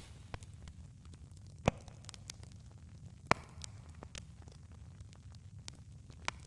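Campfire burning: a low steady rumble with scattered crackles and a few sharp pops, the loudest two coming about two and three seconds in.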